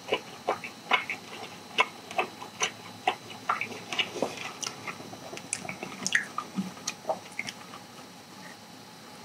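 Close-miked chewing of sticky sauced charcoal-grilled chicken: wet smacking and squishing, about two sharp smacks a second, dying away in the last couple of seconds.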